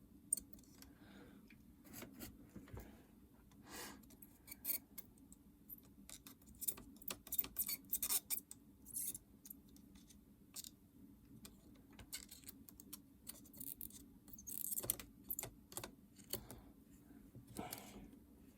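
Small hand tools working the metal legs of a DS Lite cartridge slot: irregular light metallic clicks, taps and scrapes, some clustered and a few sharper, over a faint steady low hum.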